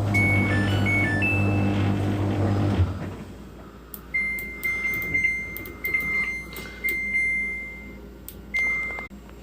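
Washing machine beeping and humming. A steady low electrical hum with a short run of electronic beeps lasts about three seconds. Then come clicks, each followed by a high beep, some brief and some held for about a second, as from buttons being pressed on the control panel.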